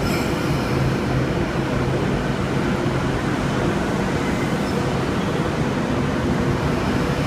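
Sydney Trains K-set double-deck electric train at the platform, a steady rumble and hum.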